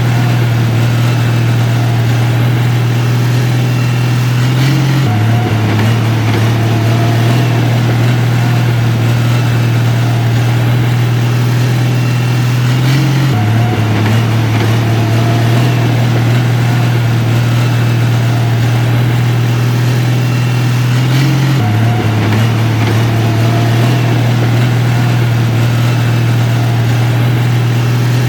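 Heavy diesel engine of construction machinery, a bulldozer or dump truck, running steadily with a constant low hum. The pitch shifts slightly about every eight seconds in the same repeating way.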